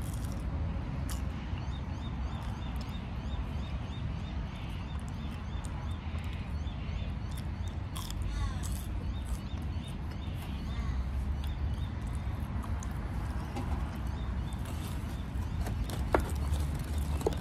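A man chewing a crunchy fried chicken fry, over a steady low outdoor rumble and a faint, regular high ticking.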